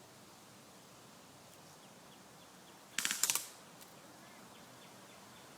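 An airsoft rifle firing a short full-auto burst: about seven sharp clicks in under half a second, roughly three seconds in.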